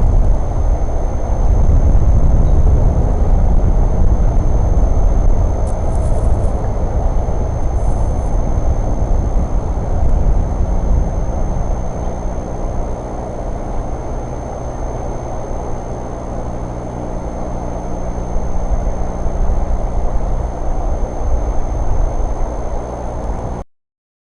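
Low, steady rumble of a running vehicle, with a steady engine hum coming through about halfway in as the rumble eases; it cuts off suddenly near the end.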